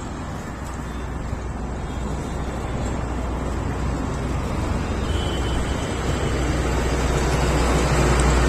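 Tractor diesel engine running steadily with a low rumble, growing gradually louder.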